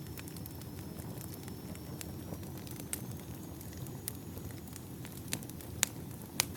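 Firewood logs burning, with scattered sharp crackles and pops over a low steady rumble; the two loudest pops come near the end.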